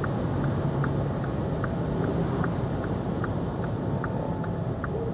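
Inside the cabin of a VW e-Up electric car on the move, a low road and tyre hum runs under a steady ticking of about two and a half clicks a second, like the turn-signal indicator relay.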